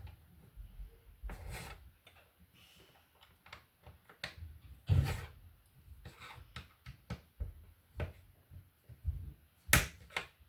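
Lego bricks being handled and pressed together: scattered plastic clicks and taps, with a sharper knock about five seconds in and another near the end.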